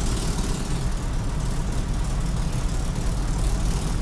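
Mercedes truck's diesel engine idling steadily, a constant low rumble with a background hiss.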